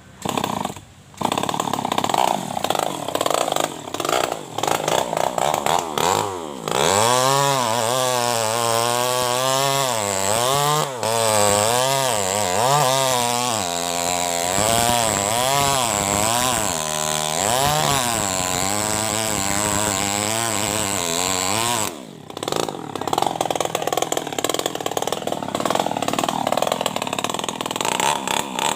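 Two-stroke New West 588 chainsaw running under load while cutting wood. Through the middle stretch the engine speed rises and falls again and again as the throttle is worked and the chain bogs in the cut, and it evens out into a rougher cutting sound near the end.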